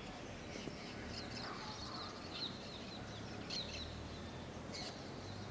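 Faint bird chirps, short high calls about once a second, over a low background rumble.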